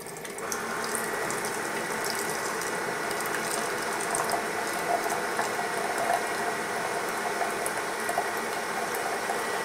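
Keurig K-Compact single-serve coffee maker brewing a pod: its pump runs steadily as the hot drink streams into the cup, coming up to full level about half a second in.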